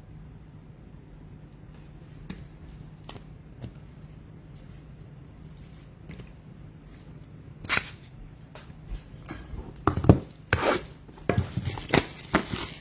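Trading cards being handled: scattered light clicks and taps, then louder bursts of rustling and sliding about eight seconds in and through the last few seconds.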